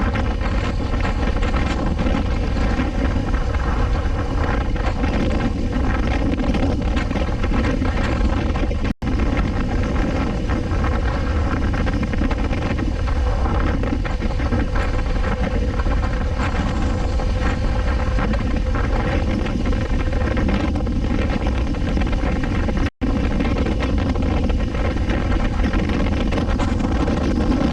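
Suzuki V-Strom 250 SX's single-cylinder engine running at a steady cruising speed, with heavy wind noise on the microphone. The sound drops out for an instant twice.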